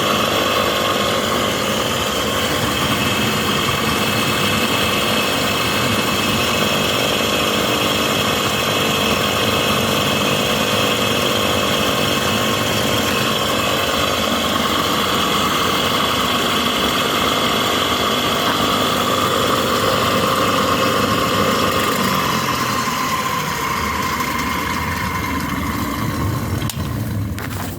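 A 2.2 kW, 3000 rpm electric motor running steadily with a whine over a rushing noise. About 22 seconds in, its pitch falls slightly and it gets quieter, and there is a sharp click shortly before the end.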